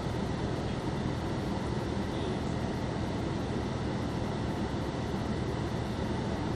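Steady low rumble and hiss inside a stationary car's cabin, the engine idling under the ventilation noise, with no change throughout.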